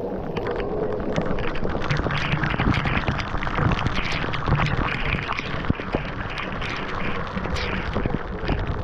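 Steady rushing noise of a waterfall mixed with wind buffeting the microphone, with many small knocks and rustles scattered through it.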